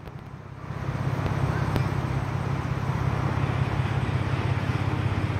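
2011 Ford Mustang's 3.7-litre V6 idling with a low, steady, fast-pulsing exhaust note that grows louder over the first second.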